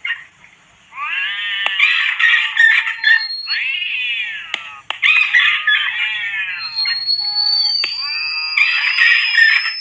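Rat-repellent sound mix: recorded cat yowls and rat screams layered together, a rapid run of shrill cries rising and falling in pitch. A thin electronic repellent tone sounds high above them, and a second one starts partway through and climbs slowly in pitch.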